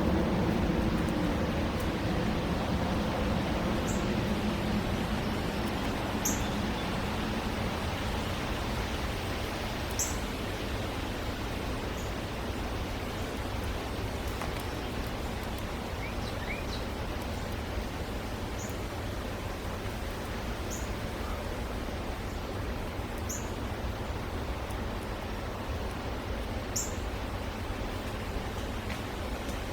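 Steady outdoor background hiss with short, high bird chirps every few seconds. A vehicle fades away during the first few seconds.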